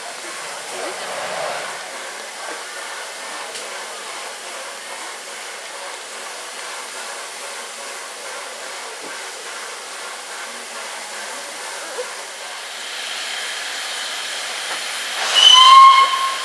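Steam locomotive 60163 Tornado, an LNER Peppercorn A1 Pacific, standing with a steady hiss of escaping steam, then one short, loud whistle blast lasting about a second near the end.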